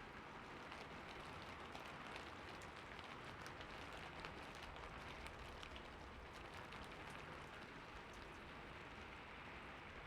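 Steady, quiet rain: an even hiss with many small, sharp drop ticks scattered through it.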